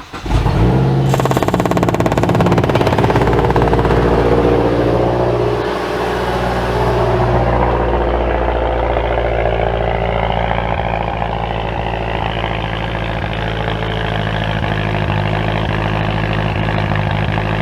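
Mazdaspeed 3's turbocharged 2.3-litre four-cylinder starting and running at a fast idle, settling a little lower about six seconds in.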